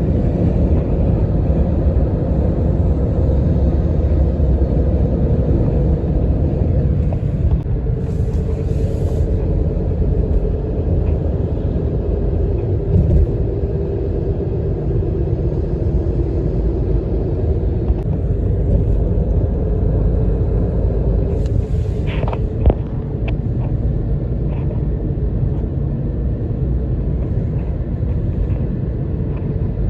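Road vehicle driving, with a steady low rumble of engine and road noise and a faint hum that drifts slightly in pitch. A few light clicks come about two-thirds of the way through.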